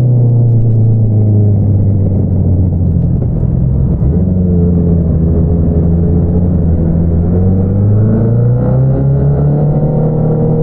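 2022 Honda CBR650R's inline-four engine through an Akrapovič single-outlet exhaust, its pitch falling as the bike slows for the first few seconds, holding steady, then rising gently as it picks up speed again near the end.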